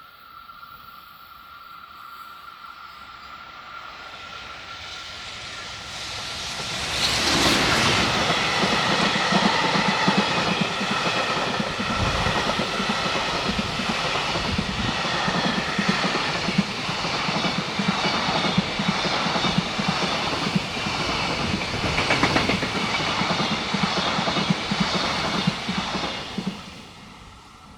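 Freight train approaching and passing close by, with a long rhythmic clatter of wagon wheels over the rail joints. It grows louder, comes in sharply about seven seconds in, runs loud for about twenty seconds, then fades near the end.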